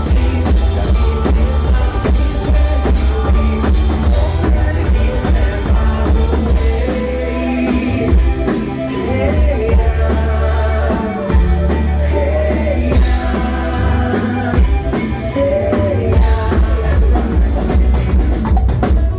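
Live band music: a rock song played in a bluegrass-style folk arrangement over a steady drum kit beat and a heavy bass line, with a melody line weaving through the middle.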